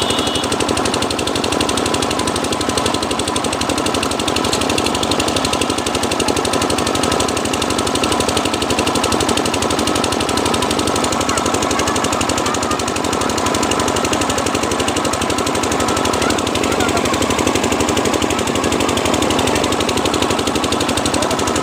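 A 12 hp engine running steadily with a fast, even beat.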